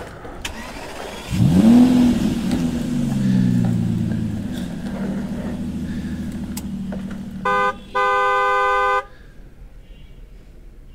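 Engine sound effect from a toy vehicle starting with a rising rev, then running steadily and fading. Near the end come a short horn toot and then a longer horn blast.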